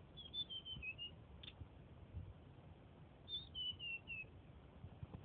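Tledekan songbird singing two short phrases of clear high notes, each stepping down in pitch, with a single short note between them.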